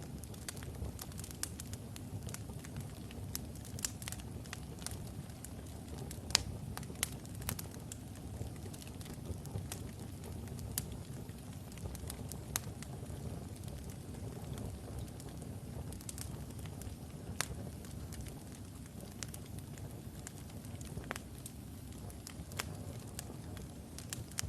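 Wood logs burning in a fireplace: a steady low rumble of flame with sharp, irregular crackles and pops.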